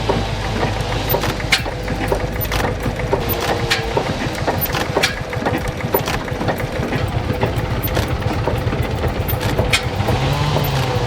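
Vintage single-cylinder, air-cooled engine running slowly, with a low hum and irregular sharp knocks from its firing strokes.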